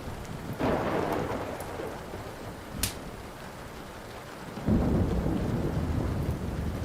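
Steady rain with thunder: a short rumble about half a second in, then a louder, low rumble building about four and a half seconds in. Crackling wood fire pops lightly over it, with one sharp pop near the middle.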